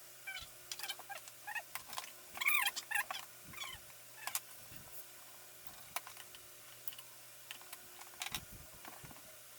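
Light clicks and clacks of computer parts and screws being handled while a desktop PC is taken apart, with a run of short, high chirping squeaks in the first half.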